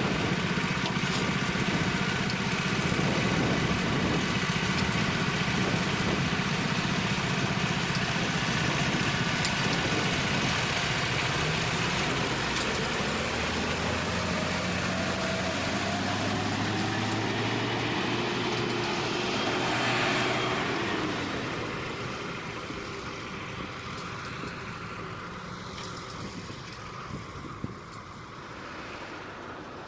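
Isuzu FSR 700 hi-rail truck's diesel engine running steadily, then rising in pitch as the truck pulls away along the rails, fading over the last several seconds as it moves off.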